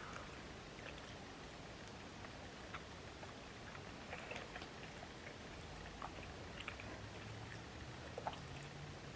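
Faint eating sounds: quiet chewing with scattered small clicks and ticks of food containers or utensils, over a low steady hum.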